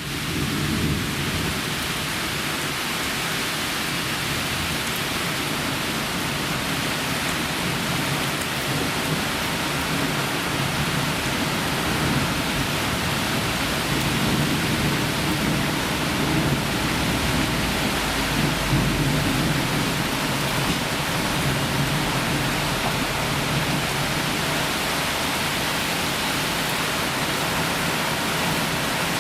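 Heavy rain from a strong thunderstorm falling steadily, with thunder rolling as a low rumble about halfway through.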